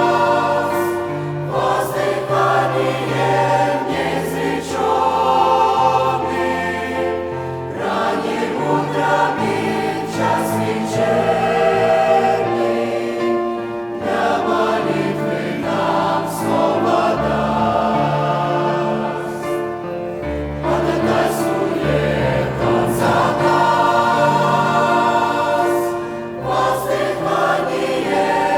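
Church choir singing a Russian-language hymn in full, sustained chords. The phrases are separated by brief pauses every few seconds.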